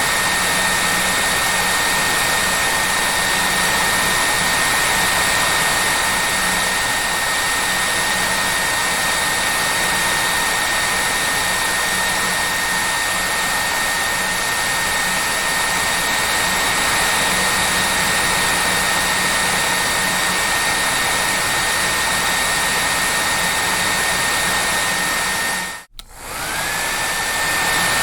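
Hair dryer blowing steadily: a loud rush of air with a constant high whine from the motor. Near the end it cuts out for a moment and comes back on, the whine rising as the motor spins up again.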